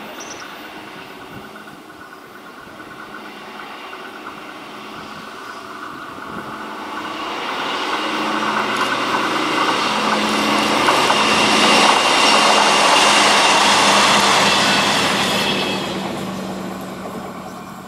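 Diesel multiple unit, a MAN 2000 railcar, passing along the line: its diesel engine and the rush of wheels on rail grow louder, peak a little past the middle, then fade away.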